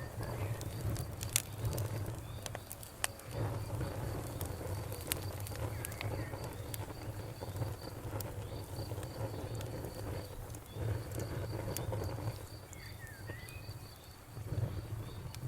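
Crackling bonfire with scattered sharp pops over a low rumble, against a steady pulsing trill of crickets.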